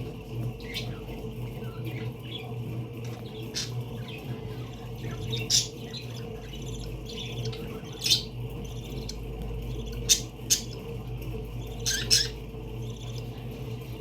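Parakeets giving short sharp squawks and chirps, a few seconds apart, the loudest about halfway through and near the end, over a steady low hum.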